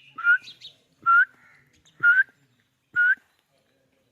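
Four short, rising whistle notes about a second apart, a person whistling.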